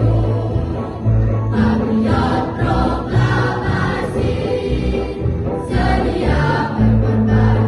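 A junior high school class choir singing together over low held accompanying notes that change about once a second.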